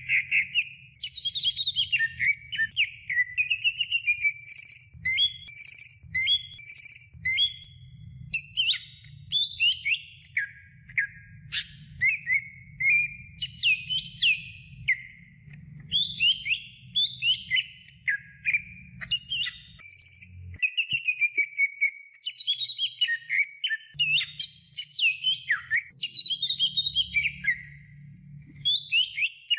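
Green leafbird (cucak hijau) singing a continuous, fast-changing song of sliding whistles and sharp chirps, with hardly a break between phrases.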